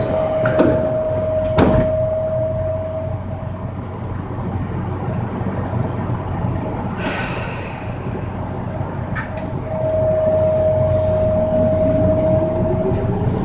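Running noise of a Tokyo Metro subway train heard from inside the car: a steady low rumble with a sharp knock about a second and a half in. Near the end a motor whine rises in pitch as the train picks up speed.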